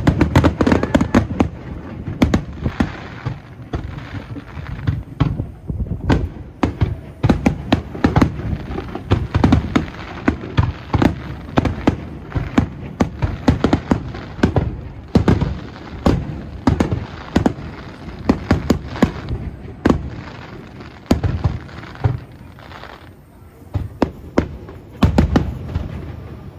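Aerial fireworks bursting in rapid succession, a dense run of booms and sharp cracks with a heavy barrage at the start. They thin out briefly near the end, then pick up again.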